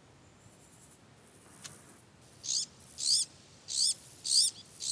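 Azure-winged magpie chicks begging: a series of high, arched calls that starts about halfway in and repeats about every two-thirds of a second.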